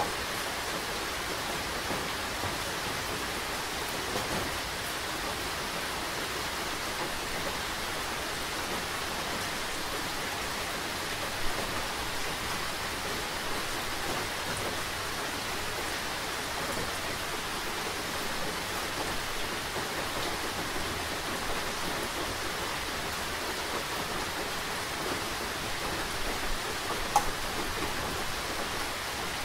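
Steady rain falling, with now and then a single louder drip or tick, the clearest about a third of the way in and near the end.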